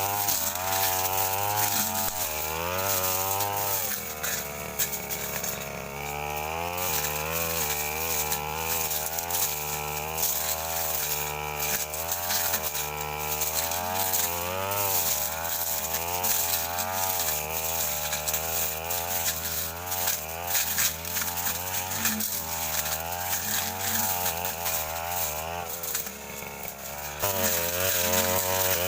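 Brush cutter engine running hard with a cutting blade fitted, its note rising and falling over and over as the blade works through thick brush.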